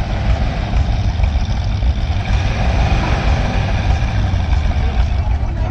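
Antique pulling tractor's engine running steadily at the line after a restart, ready to pull.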